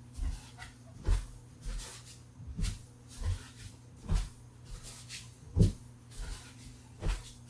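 A series of irregular knocks and clicks, about one a second, the loudest a little past halfway through, as objects are handled on a hard surface, over a steady low hum.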